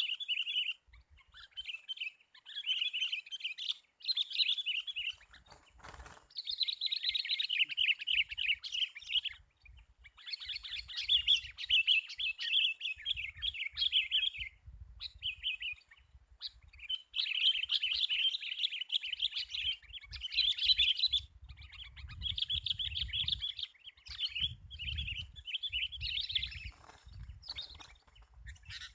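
Sooty-headed bulbul (kutilang) calling: repeated bursts of rapid, chattering bubbly notes, each lasting a second or three, with short pauses between them.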